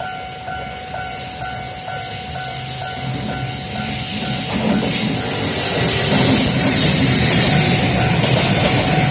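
A freight train approaching and passing close by, its running noise and wheel rumble growing steadily louder from about three seconds in. Throughout, a steady two-tone alarm repeats about twice a second, of the kind given by a Japanese level crossing warning bell.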